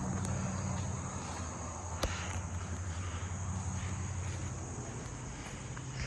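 Steady high-pitched insect drone over a low, steady engine hum, with a single sharp click about two seconds in.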